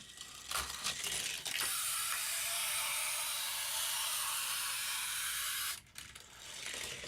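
Hot Wheels '67 Austin Mini Van die-cast car running down a plastic Hot Wheels track: a few clicks at the release, then a steady rolling hiss that cuts off suddenly about six seconds in, with a few light knocks after.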